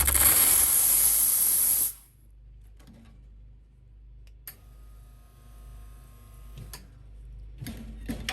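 Espresso machine purging with a loud, even hiss that cuts off suddenly after about two seconds, leaving a quiet low hum.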